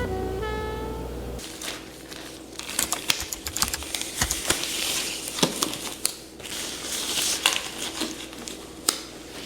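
A melody ends about a second and a half in. After it comes a run of rapid, irregular crinkling and sharp clicks, like something being crumpled or handled by hand.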